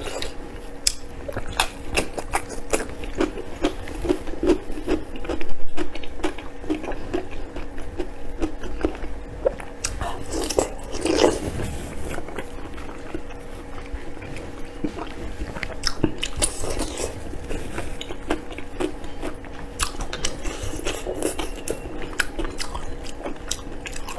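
A person chewing and biting food close to the microphone: wet chewing with irregular crunching clicks, louder bites about five seconds in and again near eleven seconds.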